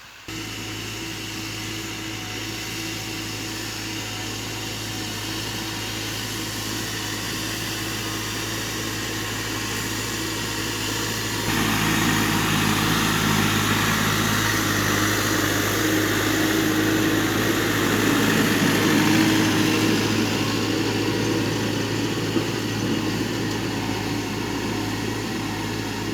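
Tractor engine running steadily, growing louder about eleven seconds in.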